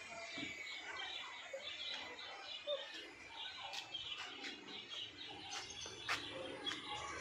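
Small birds chirping over and over, several short high chirps a second, with a few sharp clicks.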